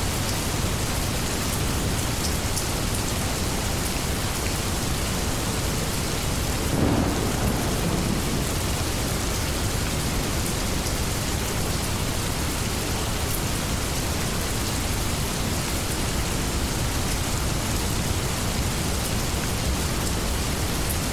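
Steady heavy rain, with a short low rumble of thunder about seven seconds in.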